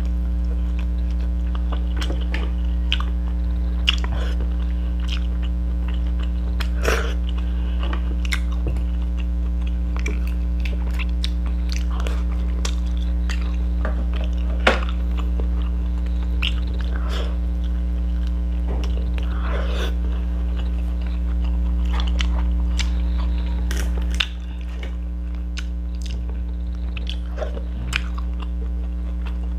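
Eating sounds of a meal of fried fish and rice: chewing and biting, with scattered short crunches and clicks. Underneath runs a loud, steady low hum that drops in level about 24 seconds in.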